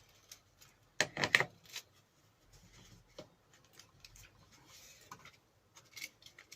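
Quick cluster of sharp knocks and clinks about a second in, then light scraping and small taps: a bench grinder accessory being handled and tried on the grinder's shaft, where it will not slide on.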